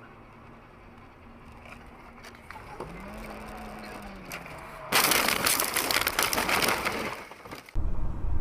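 Dash-camera audio of a car crash: a sudden loud noise of impact and crunching about five seconds in, lasting nearly three seconds, then an abrupt change to a loud low rumble of engine and road noise.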